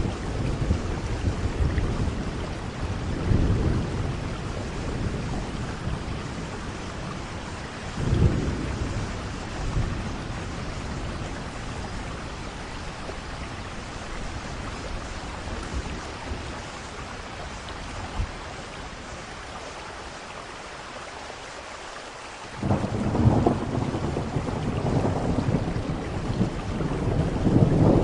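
Thunderstorm: steady rain with rolling thunder. A few rumbles come in the first ten seconds, a calmer stretch of rain follows, and a loud rumble of thunder breaks in suddenly near the end and keeps building.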